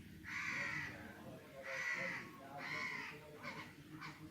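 A bird's repeated calls, about one a second: three longer calls followed by two shorter ones near the end.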